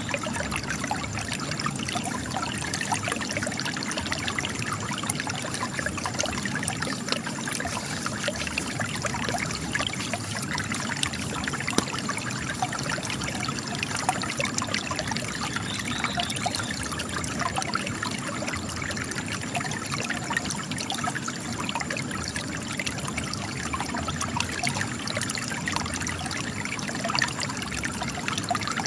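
Spring water trickling and splashing steadily from cracks in rock, a constant patter of small drips and splashes.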